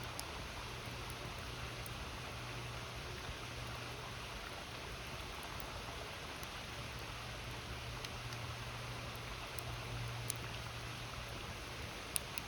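A river flowing steadily, with a few sharp crackles from a wood campfire, the loudest near the end.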